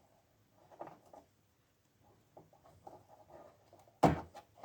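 Small clicks and scratches of a rubber toothed strip being handled at the end of a knitting machine's needle bed, as the worn strip is swapped for a new one. One sharp knock near the end is the loudest sound.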